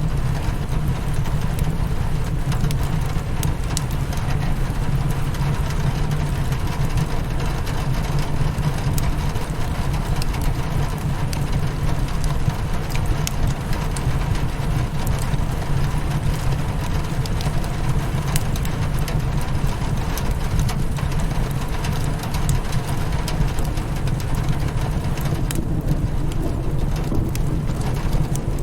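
Rain pattering steadily on a window with a deep, even rumble underneath, mixed with the scattered sharp crackles of a wood fire in a fireplace.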